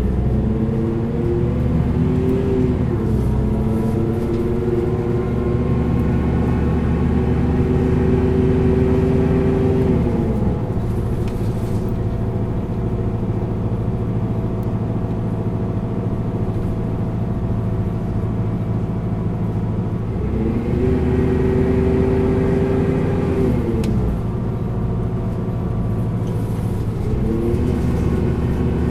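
Isuzu Erga bus's four-cylinder diesel engine labouring up a steep grade, revving high and holding. The revs fall away twice, about ten seconds in and again near twenty-four seconds, then build again.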